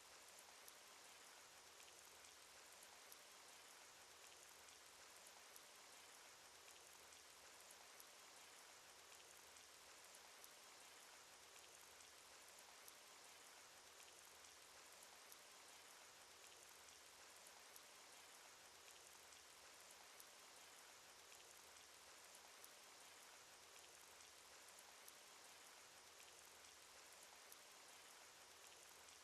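Faint, steady rain sound effect: an even hiss of rainfall sprinkled with many tiny raindrop ticks, unchanging throughout.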